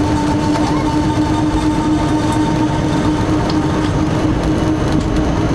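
Moving passenger express train heard from an open coach doorway: loud, steady running noise of the train on the track, with a steady hum.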